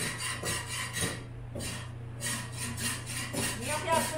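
Close-up chewing of a mouthful of rice and roast meat: rhythmic rasping chews that stop for about a second a little after the start, then resume.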